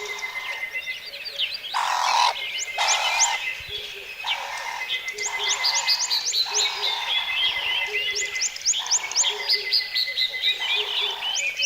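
Nature ambience of frogs croaking over and over, roughly once a second. Many quick high chirps run over them, along with a steady high-pitched insect trill.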